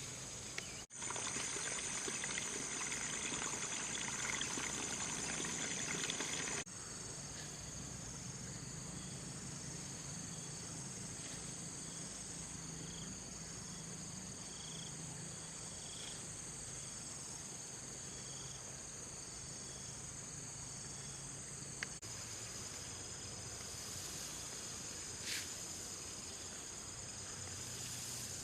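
A steady, high-pitched chorus of insects trilling. For the first several seconds a louder rustling noise sits over it, then cuts off suddenly.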